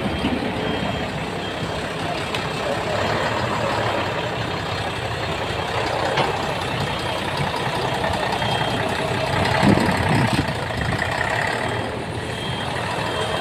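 Heavy vehicles and machinery at work clearing rubble: diesel engines running steadily, with short high reversing-alarm beeps sounding now and then.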